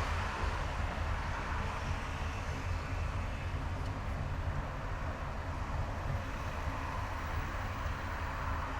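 Steady road noise of a car driving on a highway: a constant low rumble of engine and tyres with an even hiss above it.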